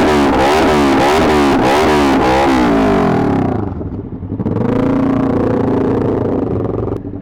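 Motorcycle engine revving up and down in quick repeated pulses, about two to three a second, then easing off about three seconds in and settling into steady running.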